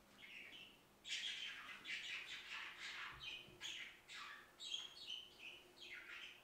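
Birds chirping: a quick run of short, falling calls, faint at first and thick from about a second in.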